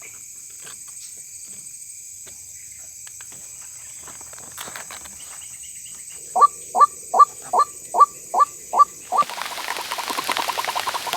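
White-breasted waterhen calling: a run of about eight loud, falling notes at roughly two and a half a second, over a steady high insect whine, followed by a hiss of noise near the end.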